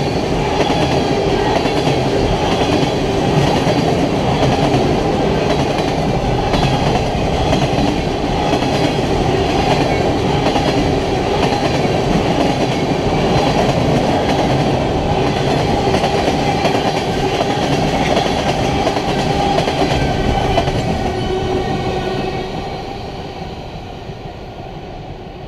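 Freight train of tank cars rolling past close by, a steady heavy rumble of wheels on rail. Near the end the last car goes by and the sound fades as the train moves away.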